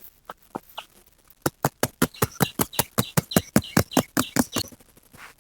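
Massaging hands slapping and chopping on a person's back in a fast, even run of sharp smacks, about six a second, for about three seconds starting a second and a half in, after a few scattered pats.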